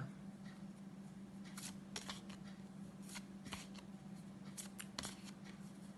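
Faint, irregular soft flicks and taps of paper flashcards being flipped quickly one after another, over a low steady hum.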